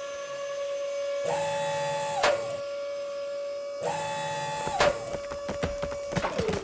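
Small electric motors of a toy excavator whining steadily. A second, higher-pitched motor whine with a low hum cuts in twice for about a second each, with a click as each stops.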